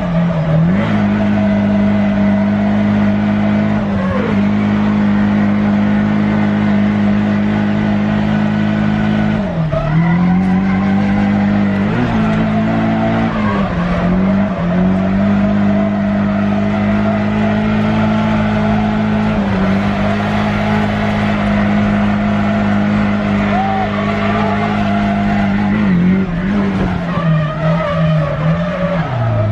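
Nissan S13's turbocharged SR20DET four-cylinder engine held at high revs while drifting, its pitch dropping briefly every few seconds and climbing back, with tyres skidding.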